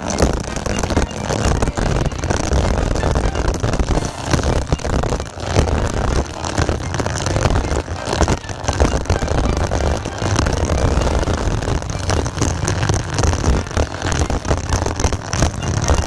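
Heavy rain falling on a LokSak plastic zip bag that has a camera sealed inside it. It is a dense, steady patter of drops over a constant low rumble.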